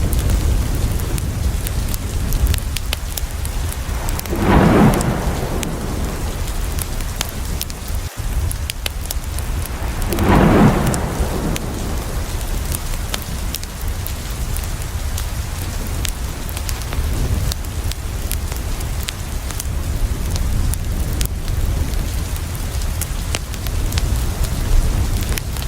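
Steady heavy rain with a deep low rumble and scattered sharp ticks of drops. Two brief louder swells come about five and ten seconds in.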